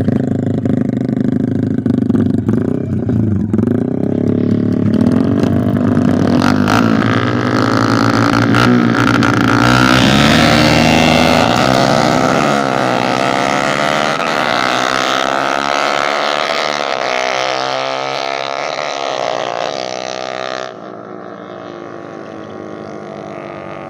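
A 200cc MX and a stock Honda Sonic underbone motorcycle running flat out in a drag race. The engines rev hard and climb through the gears, the pitch rising and dropping back with each shift, then hold at high revs. The sound falls away sharply about 21 seconds in as the throttles close.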